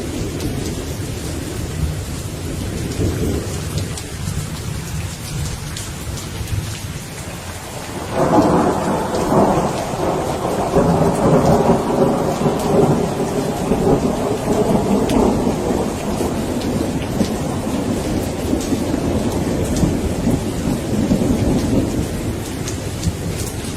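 Rain falling steadily in a thunderstorm, with distant thunder rumbling low. About eight seconds in, a loud peal of thunder breaks suddenly and rolls on for several seconds, then slowly fades.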